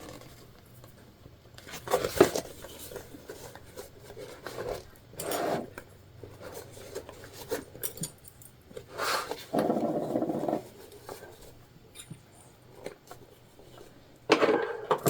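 Scattered handling sounds as jelly vinyl and bias tape binding are worked by hand: short rustles, rubs and light knocks a few seconds apart, with a longer rubbing burst about ten seconds in.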